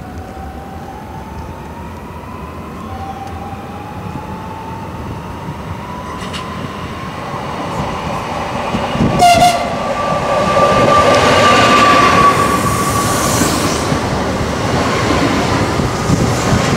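Pesa Bydgostia electric multiple unit running on the rails, getting louder, its traction motor whine rising steadily in pitch as it accelerates. A short horn blast sounds about nine seconds in.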